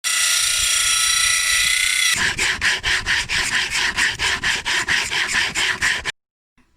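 Rough sandpaper rubbing on decking wood. A steady rasp for about two seconds, then quick back-and-forth sanding strokes, about four a second, which stop suddenly about six seconds in.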